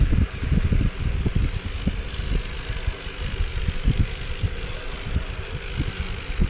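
A vehicle running, with irregular low rumbling gusts of wind buffeting the microphone.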